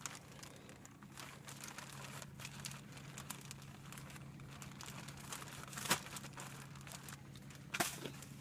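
Shop-vac filter bag being handled and unfolded, crinkling and rustling, with two sharper clacks in the second half over a faint steady hum.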